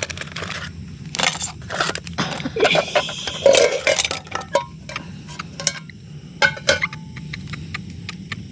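Pots, pans and utensils clinking and knocking together in irregular taps as camp cooking gear is handled, with a few brief metallic rings.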